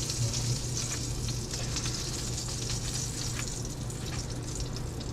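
Hot frying grease sizzling steadily in a skillet, with faint little pops and a low steady hum underneath.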